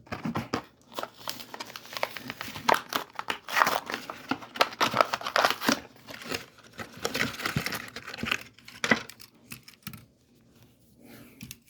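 A Hot Wheels blister pack being torn open by hand: the plastic blister and cardboard card crinkling and ripping in irregular bursts, dying down near the end.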